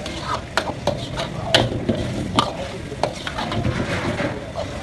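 Food sizzling in a pan while it is stirred, the utensil knocking and scraping against the pan several times at irregular intervals.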